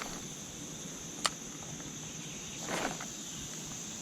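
Steady high-pitched insect chorus, with one sharp click about a second in and a brief whoosh near the three-second mark.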